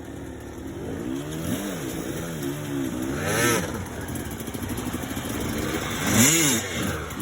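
Dirt bike engine revved in short throttle blips, the pitch climbing and dropping again several times, the sharpest rises about three and a half seconds in and near the end.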